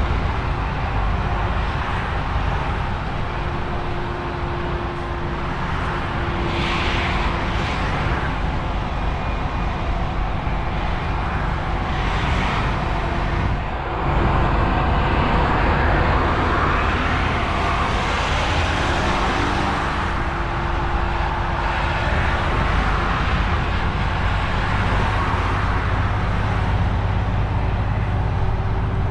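DAF XF truck driving along: steady engine and road noise, swelling louder briefly a few times.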